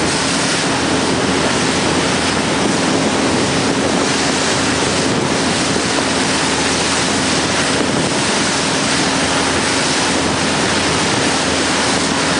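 Steady rush of wind and water from a boat running at about 14 to 15 knots, with a steady low hum underneath from the boat's engine.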